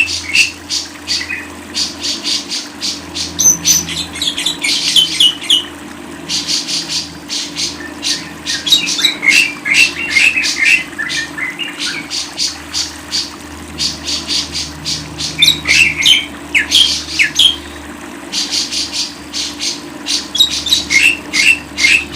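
Bird song: repeated bouts of fast, high chattering trills, each about two seconds long, broken by short chirps, over a faint steady low hum.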